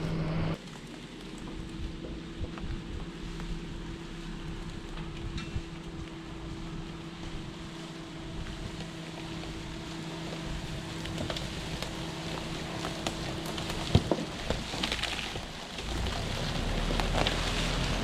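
Suzuki Jimny engine idling with a steady hum, with scattered light clicks and a sharp knock about fourteen seconds in. Near the end a louder, deeper rumble comes in.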